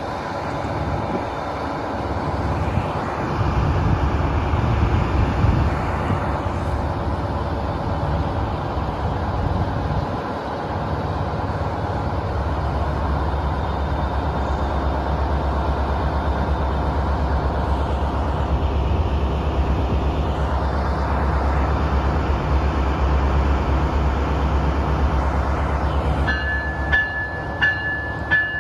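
A train running past with a steady low rumble that grows stronger about halfway through. Near the end a repeated high ringing tone joins in.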